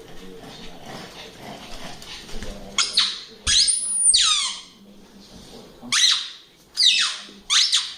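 Dog whining, a series of high-pitched cries that slide down in pitch, one longer cry about halfway through and several shorter ones near the end.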